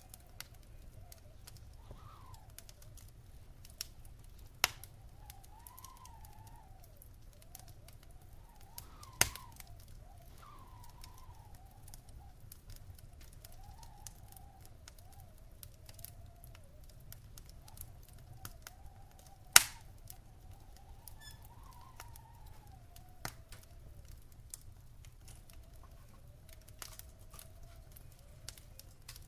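Wood fire burning in a stone fireplace, crackling with scattered sharp pops, the loudest about 5, 9 and 20 seconds in. Under it are a steady low rumble and a faint whistle that wavers slowly up and down.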